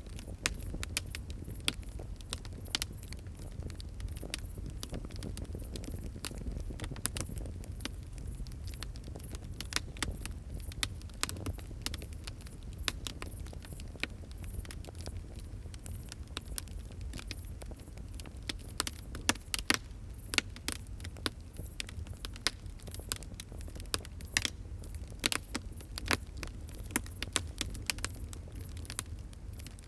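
Wood fire crackling: irregular sharp pops and snaps, denser in the second half, over a steady low rumble of the flames.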